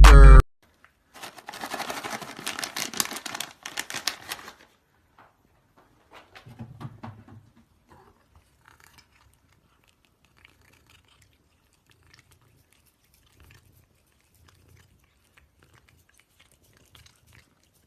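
A cat crunching food, a dense run of quick crackly clicks for about three seconds, followed by a short low rumble and then near quiet.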